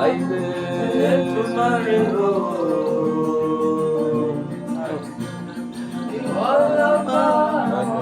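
Live gospel worship music: a voice singing long, sliding notes over guitar and keyboard, holding one note through the middle before a new phrase rises near the end.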